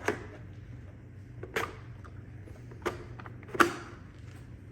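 Hard plastic parts of a robot vacuum being handled: four sharp clicks and knocks, the loudest about three and a half seconds in, over a steady low hum.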